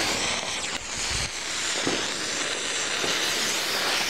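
Fireworks crackling as a continuous dense hiss.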